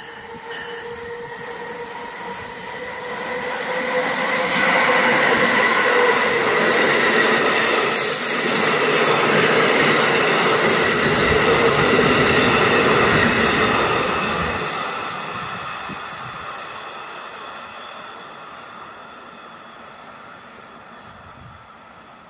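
Amtrak passenger train behind a Siemens ACS-64 electric locomotive passing through a station at speed. A steady whine and rail noise build to a peak over about ten seconds, then fade as the cars recede.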